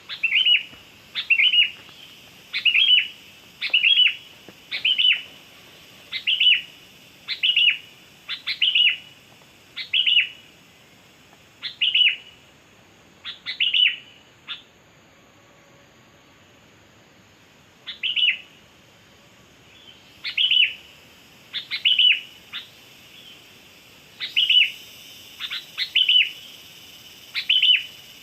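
Sooty-headed bulbul (kutilang) calling over and over in short, bright phrases of two or three quick notes, about one phrase a second, with a pause of a few seconds about halfway through.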